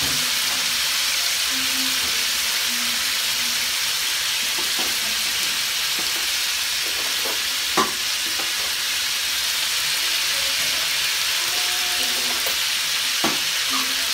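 Pieces of meat sizzling steadily in hot oil in a wok, with a few sharp clicks of the spatula against the pan; the loudest comes about eight seconds in.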